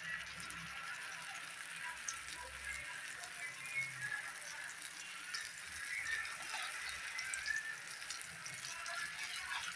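Eggs and chopped vegetables sizzling in oil in a frying pan, with many small crackles, over faint background music. Near the end a spatula starts scraping in the pan as the yolks are broken.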